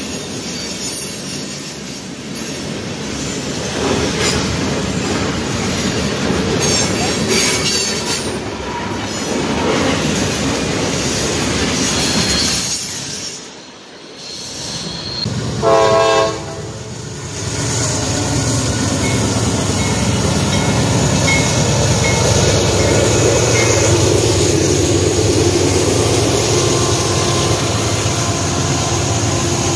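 Freight cars rolling past with steady wheel-and-rail noise and some squealing. About halfway through, a diesel locomotive horn gives a short blast. Then Norfolk Southern diesel locomotives run past with steady engine rumble and wheel noise.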